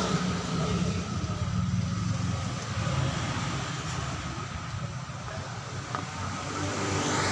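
An engine running steadily with a low hum and a faint steady whine over it.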